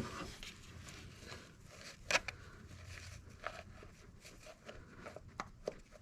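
Scattered light clicks and rustling of hand work on an engine, with one sharper click about two seconds in.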